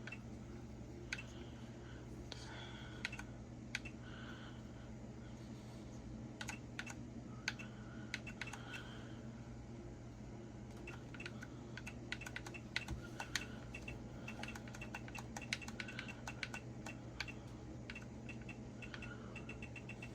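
Original Xbox controller buttons clicking in quick, irregular presses as the console's clock is set, with short electronic blips in between and a steady low hum underneath.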